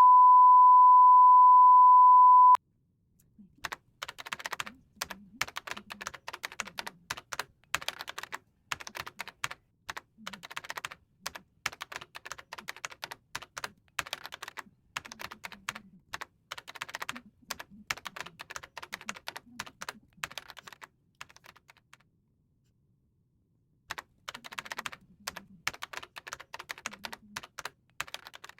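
A loud steady beep lasting about two and a half seconds, then typing on a computer keyboard in quick runs of keystrokes, with a pause of about three seconds before it resumes near the end.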